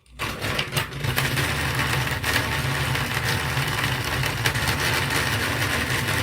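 Lego Power Functions M motors whirring steadily through their gear train as the motorised Lego car drives. The sound starts abruptly and carries a strong low hum under a dense mechanical buzz.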